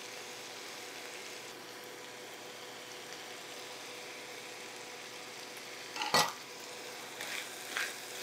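Ground beef and green peppers sizzling and popping in a skillet as diced onion is scraped in off a metal bench scraper. About six seconds in, a sharp knock of utensil against the pan, then a few scrapes as a wooden spoon begins stirring.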